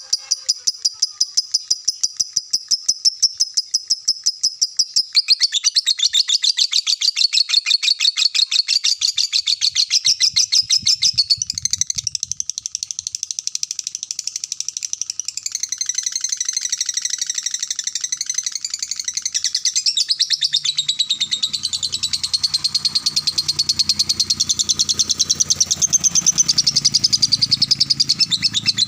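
A songbird singing one long unbroken song of fast, repeated high chirps, shifting to a new pattern every few seconds. A low rumble comes in underneath about two-thirds of the way through.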